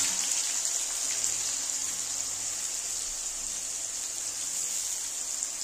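Sliced onions and green chillies sizzling in hot oil in a kadai: a steady frying hiss that eases off slightly.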